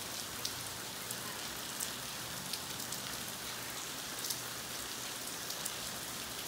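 Steady rain falling on roofs and foliage: an even hiss with scattered sharp drop impacts close by.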